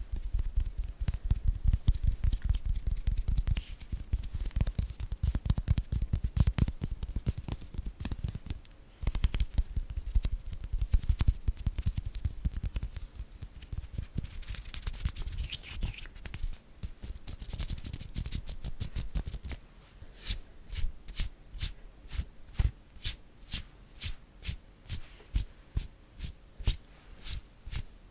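Bare hands rubbing, tapping and fluttering in quick, dense strokes. About two-thirds of the way in it settles into a regular rhythm of sharp strokes, a little under two a second.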